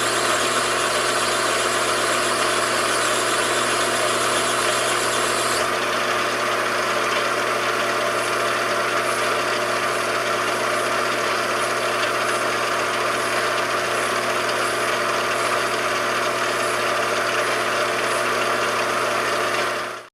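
Machine tool running steadily with an even hum and hiss. About six seconds in, the high hiss drops and faint regular ticks come in. The sound cuts off abruptly at the end.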